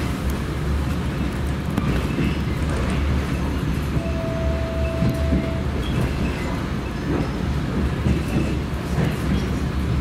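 Train in motion, a steady low rumble throughout. A single steady high tone sounds for about a second and a half near the middle.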